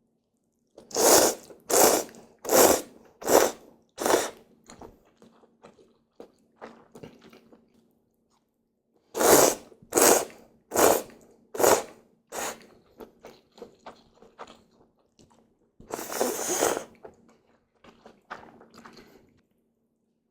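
A person eating hiyashi chuka (cold ramen noodles) close to the microphone. There are two quick runs of five loud slurps, each followed by quieter chewing, and about three-quarters of the way in comes one longer slurp.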